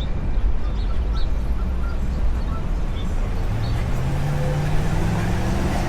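City traffic: a motor vehicle's engine rising in pitch as it accelerates, starting a little past halfway, over a steady low rumble of street noise.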